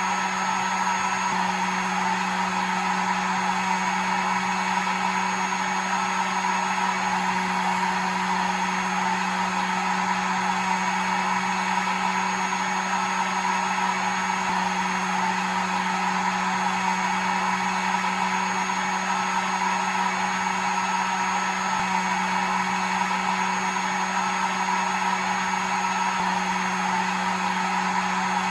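Hair dryer running steadily: an even rush of blown air over a constant motor hum with a faint high whine, without change.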